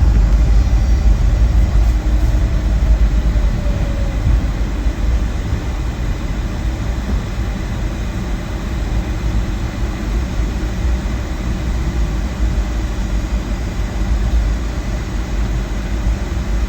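Low, steady cabin rumble of a Boeing 757-200 rolling on the ground after landing. It eases off over the first few seconds as the aircraft slows, then holds steady.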